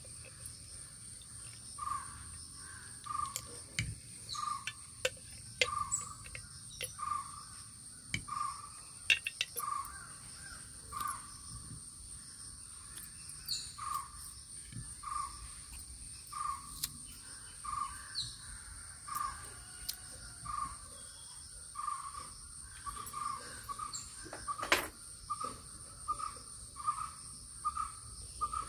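A bird repeats one short, fairly low note about once a second, over a steady high-pitched insect drone. A few light clicks of kitchen utensils fall in between, the sharpest about 25 seconds in.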